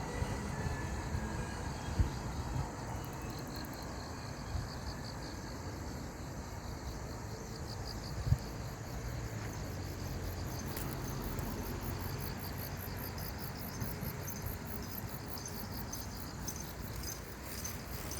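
Insects chirping in fast, even pulses that grow denser about halfway through, over a low rumble. Two sharp knocks, about two and eight seconds in.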